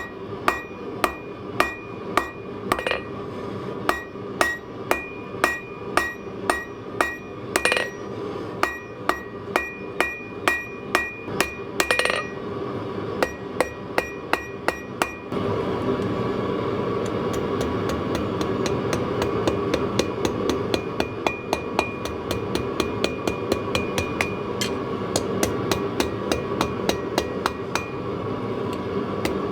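Hammer blows on metal on an anvil during forging, each strike giving a short ringing tone, at about two blows a second. From about halfway the blows come quicker and lighter over a steady background noise.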